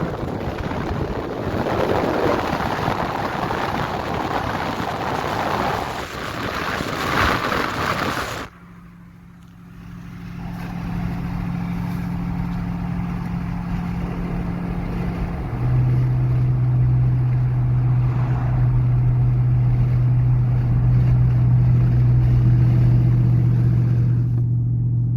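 2019 Dodge Charger R/T's 5.7-litre HEMI V8 cruising at highway speed through Black Widow Neighborhater mufflers with the resonators deleted, heard with a window down. First comes a rush of wind and road noise, which cuts off abruptly about eight seconds in. Then a steady, deep exhaust drone takes over; it drops a little in pitch and gets louder about halfway through.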